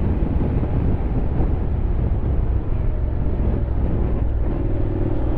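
Honda X-ADV 750's parallel-twin engine running steadily while riding, mixed with wind and road noise.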